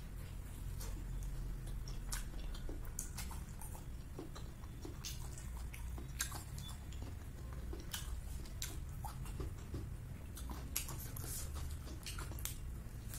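Close-up chewing and biting of a crispy fried chicken dumpling, with short sharp crunches and mouth clicks scattered throughout, over a low steady hum.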